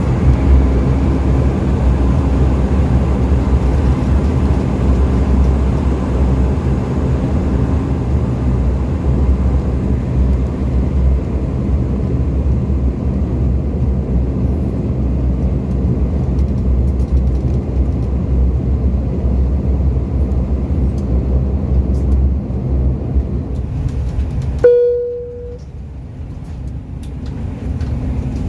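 Steady low droning hum of a Dash 8 turboprop heard from inside the cabin, its engines still running after landing. About 25 seconds in it cuts off suddenly with a short beep, and a quieter hum follows.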